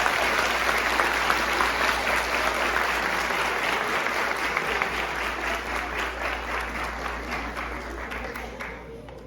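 Audience applauding: dense, steady clapping that thins out and grows quieter near the end.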